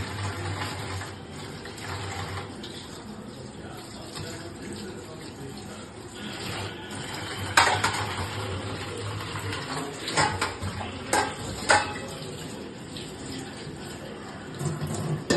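Dishes being washed under a running tap: water running steadily while vessels and utensils clatter, with a few sharp clanks in the second half.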